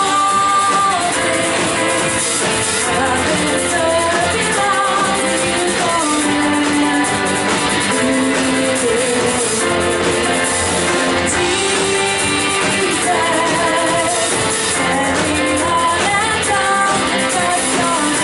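Live worship band music with voices singing a melody over a full band.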